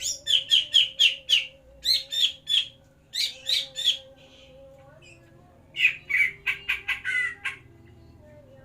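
Cucak ijo (green leafbird) giving harsh, rapid chattering calls in four bursts of several notes each, about five notes a second, with the longest burst in the second half.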